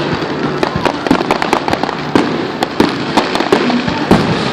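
Fireworks going off: a dense, irregular run of sharp cracks and pops, several a second, over a continuous crackle.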